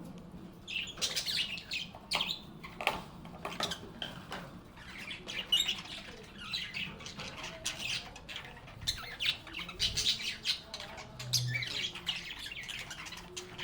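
A group of pet lovebirds (Agapornis) chattering in a steady stream of short, high chirps and squawks.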